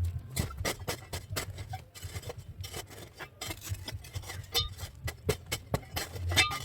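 A tool scraping and digging into the ground, many short, irregular strokes, as a shallow fire pit is dug out.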